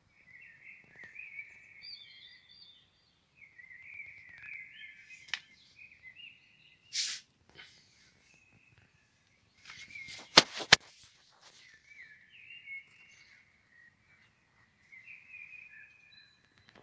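A bird chirping in short warbling phrases, on and off. A brief rustle sounds about seven seconds in, and two sharp clicks close together come about two-thirds of the way through, louder than anything else.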